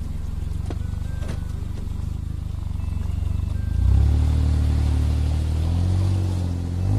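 Suzuki Jimny's engine running with a low, pulsing hum; about four seconds in it gets louder and its pitch rises, as when the vehicle is driven off.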